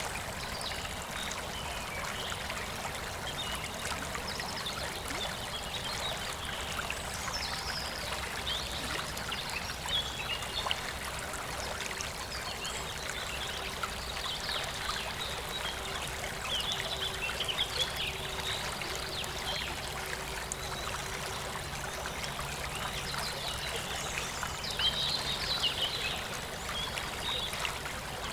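River of clear water flowing and trickling steadily.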